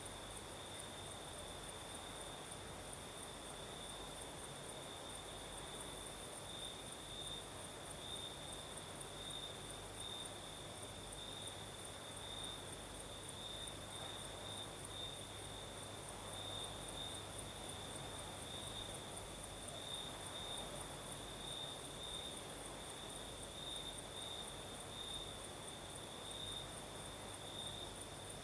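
Chorus of crickets chirping on and on at night: a fast, pulsing high-pitched trill with a second, even higher cricket note above it, over a soft steady hiss.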